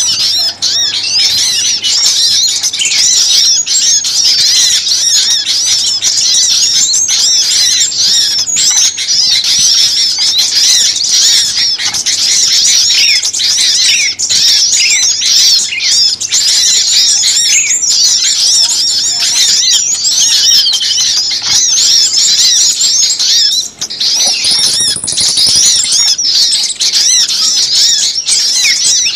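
A dense chorus of many small songbirds chattering and chirping at once, rapid overlapping high-pitched calls with no break. It is a bird-lure (pikat) recording of noisy, excited small birds, meant to draw other small birds in.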